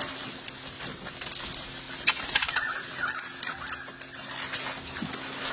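Wild king parrots feeding: irregular small clicks and taps of beaks and feet on seed and bowls, with a few faint chirps a couple of seconds in, over a steady low hum.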